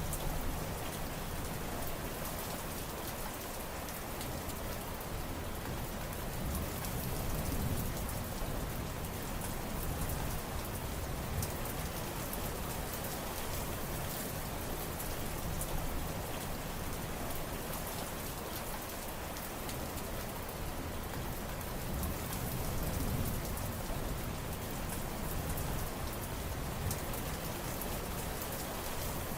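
Steady heavy rain falling on surfaces, a dense patter of drops over a low rumbling wash that swells and eases slowly.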